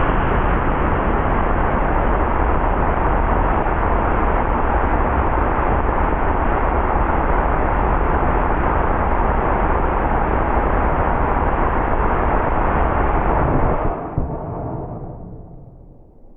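A 75 mm L-class solid rocket motor (ammonium perchlorate, strontium nitrate and magnesium propellant) firing on a static test, burning loudly and steadily, then dying away about fourteen seconds in.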